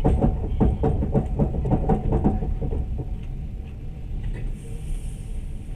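Passenger train running along the track, heard from inside the carriage: a steady low rumble, with a quick run of knocks and rattles over the first three seconds and a high hiss near the end.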